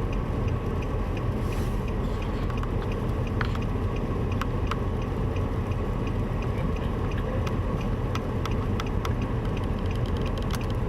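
Car driving on a highway, a steady low rumble of engine and road noise heard from inside the cabin, with faint scattered ticks throughout.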